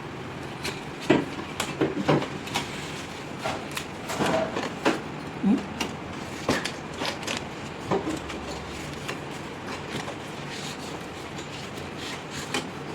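Irregular knocks and clicks of metal parts and tools being handled on an air-conditioner unit under repair, over a steady background hum.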